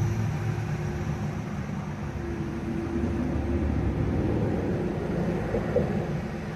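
A large engine running steadily: a continuous low rumble with a steady hum over it.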